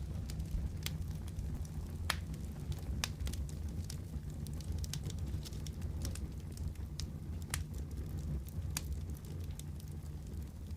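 Fireplace fire crackling: sharp, irregular pops about once a second over a steady low rumble.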